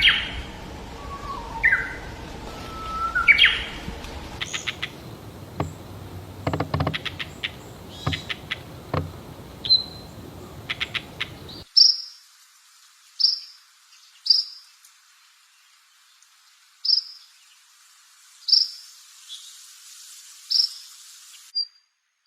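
Songbird calls from two spliced recordings. The first has rising whistled notes and bursts of rapid clicking notes. After an abrupt switch about 12 seconds in comes a series of short, high chirps, one every second or so.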